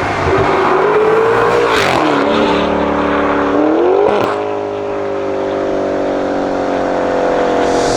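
Maserati Quattroporte GTS's 3.8-litre twin-turbo V8 through an aftermarket Fi valvetronic catback exhaust, accelerating hard. The revs climb, drop at an upshift about two seconds in, climb again, then fall away steadily after a short crack about four seconds in.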